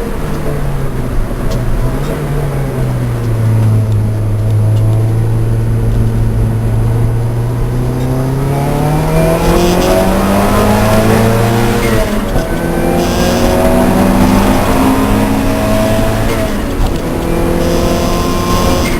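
Race car engine slowing to low revs and holding there for a few seconds, then accelerating hard. The revs climb, drop sharply about twelve seconds in at an upshift, climb again and drop at a second upshift near the end.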